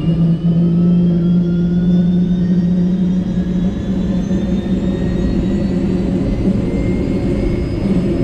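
Helicopter turbine engine spooling up during start-up: a whine that rises slowly and steadily in pitch over a steady low drone.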